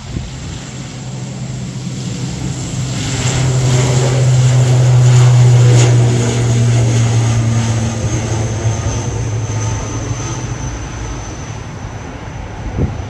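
Propeller airplane passing by: a steady low engine and propeller drone that swells to its loudest about five seconds in, then fades away.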